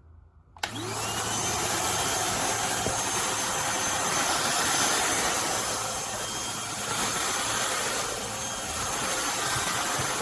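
Eureka Blaze cordless stick vacuum switched on about half a second in, its motor spinning up in pitch and then running steadily with a rushing-air noise and a high whine.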